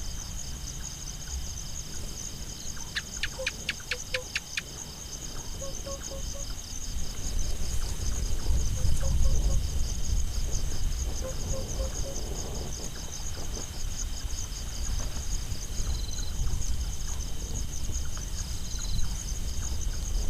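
Crickets chirring in a steady, pulsing night chorus, over a low rumble that swells in the middle. A few seconds in comes a quick run of about seven sharp clicks, and a few short, faint groups of notes sound now and then.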